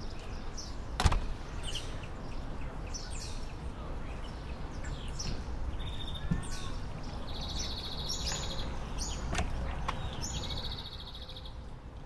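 Birds chirping and trilling over a steady background hiss, with a sharp click about a second in and another later on.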